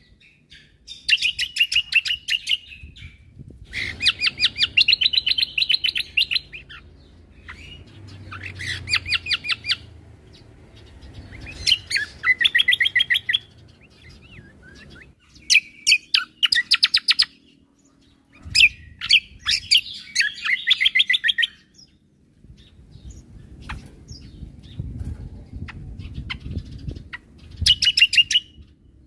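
Cucak kombo (kecial kombo) songbird singing: repeated bursts of rapid, high chirping trills, each a second or two long, with short pauses between.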